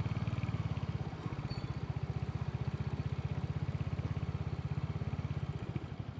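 Royal Enfield motorcycle engine running steadily at low revs, with a rapid, even exhaust beat and no revving.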